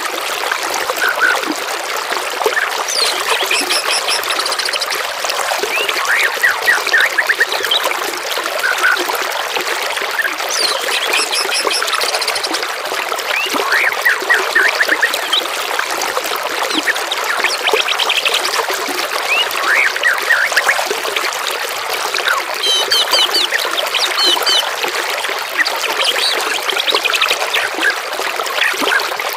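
Steadily trickling, flowing water with songbirds calling over it: short chirps, quick repeated trills and falling whistled notes come and go throughout.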